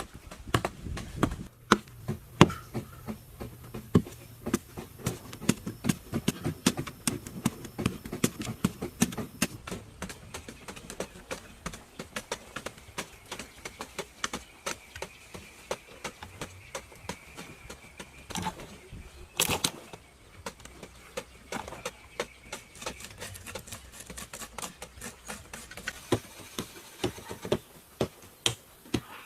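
Irregular sharp taps and knocks, several a second and uneven in strength, with a louder pair about two thirds of the way through. A faint steady high tone sounds through the middle.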